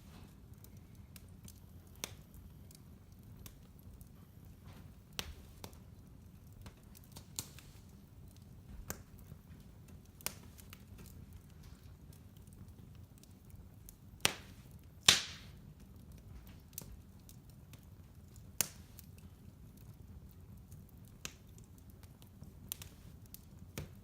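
Wood fire in a fireplace burning with a low steady rumble and scattered crackles and pops, two louder snaps a little after halfway.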